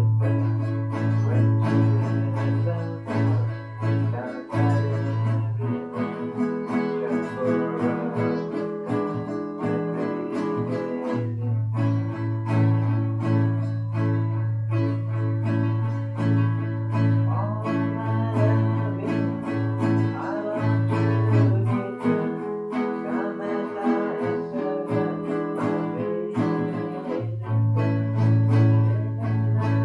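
Guitar playing a tune: picked notes over a held low bass note that breaks off briefly a few times.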